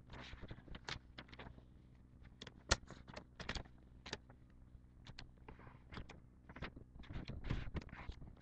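A sheet of paper handled and folded, giving irregular rustles and crackles as it is creased, with one sharp crack near the start.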